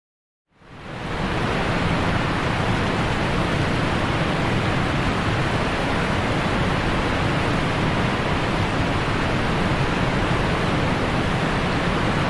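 Steady rushing of water spilling off a mill's water wheel into the stream below. It fades in about half a second in.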